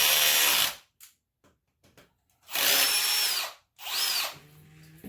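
Power drill running in three bursts, a whine that winds down in pitch as each stops, spinning out the coolant drain bolt on a two-stroke dirt bike engine: the first run stops under a second in, the last is short.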